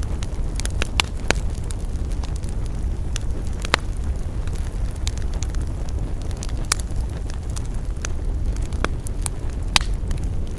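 Wood fire crackling: irregular sharp snaps and pops over a steady low rumble, with a few louder pops, the loudest near the end.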